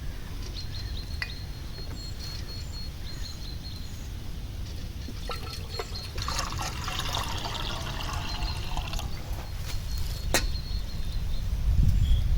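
Liquid being poured for about three seconds, starting about halfway through, over a steady low outdoor rumble with a few sharp clicks.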